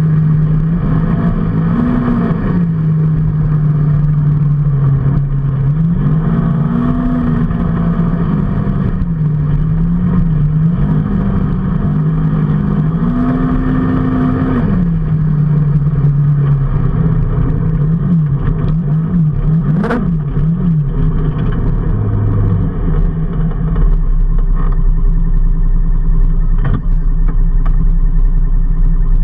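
A vehicle engine running while moving, its pitch rising and falling repeatedly through the first half, then settling lower and steadier over the last few seconds.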